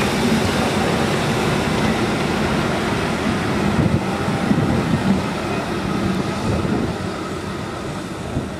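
A train of old passenger coaches and goods wagons rolls past close by, its steel wheels rumbling on the rails. There are a few knocks over the rail joints about halfway through, and the noise eases near the end as the last wagons go by.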